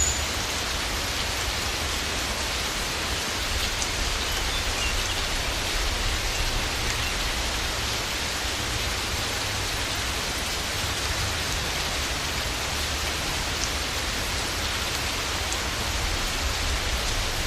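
Steady rainfall, an even continuous hiss with a low rumble underneath.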